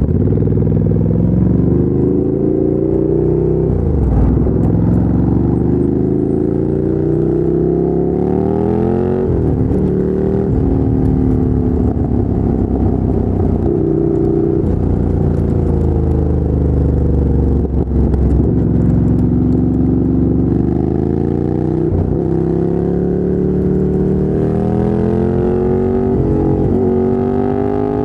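2017 Ducati Monster 797's air-cooled L-twin running through a LeoVince LV-10 exhaust while riding. It accelerates in repeated pulls, its pitch rising and then dropping suddenly at each gear change, and falls away when it eases off between pulls.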